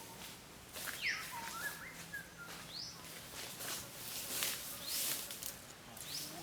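Several short bird calls, sweeping chirps and whistles, over repeated brief rustling and crunching noises.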